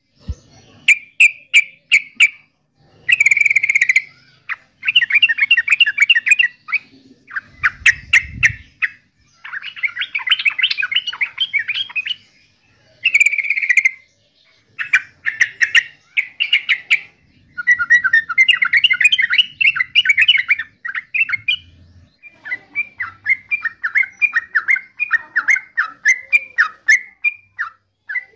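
Yellow-vented bulbul calling: bursts of rapid, bubbly chattering notes, each a second or two long with short pauses between. Near the end the notes run on in a longer unbroken series.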